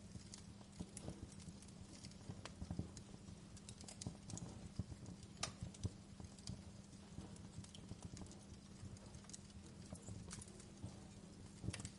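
Wood fire in a fireplace crackling quietly: irregular small pops and snaps, with a sharper snap about five and a half seconds in and another near the end, over a low steady rumble.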